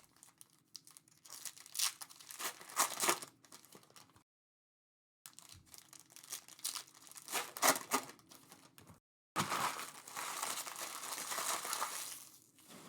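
Foil wrappers of Panini Prizm hobby card packs crinkling and tearing as packs are opened by hand, in three bursts with short silent gaps between them.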